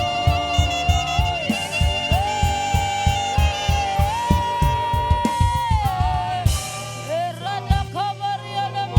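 Saxophone playing a slow worship melody of long held notes that slide up and down between pitches, over a band with a steady kick-drum beat. About six and a half seconds in the drums drop out, and the saxophone plays shorter, quicker phrases over a held bass.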